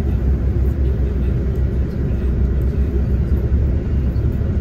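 Coach bus engine running, heard from inside the passenger cabin as a steady low rumble.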